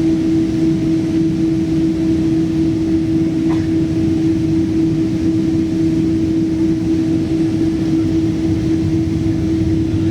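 Boeing 777-200 cabin noise: the engines run at steady low power on the ground before takeoff, with a constant low hum and rumble. A faint tick comes about three and a half seconds in.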